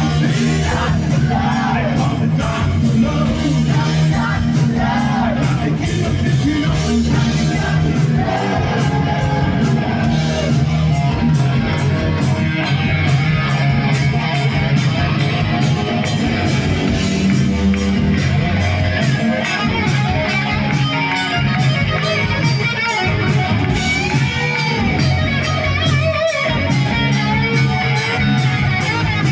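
A rock band playing live: electric guitar over bass and a drum kit keeping a steady beat, with some singing.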